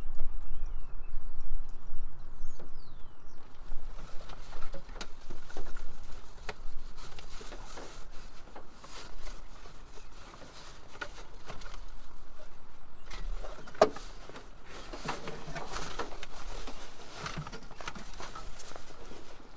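Irregular clicks, clinks and knocks of hand tools and metal parts being worked on a Land Rover Discovery 2, with a few stretches of quicker rhythmic clicking.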